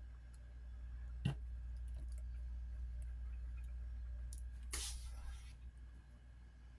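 Small parts being handled during a smartphone repair: one sharp click about a second in, then a brief scratchy rustle about five seconds in, over a steady low hum.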